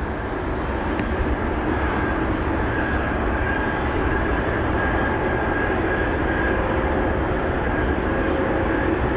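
Airbus A380-841's four Rolls-Royce Trent 900 jet engines at takeoff power as it departs, a steady jet rumble with a faint whine, slowly growing louder.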